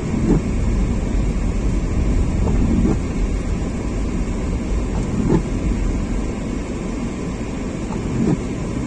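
Steady low rumble of a car driving, road and engine noise, with a few brief swells.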